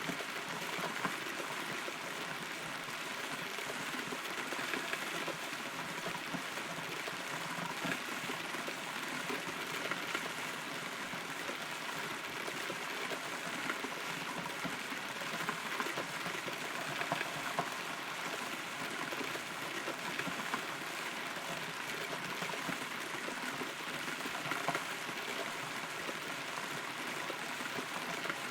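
Steady rain heard from inside a hollow rotten tree trunk, with many small drops tapping on the wood.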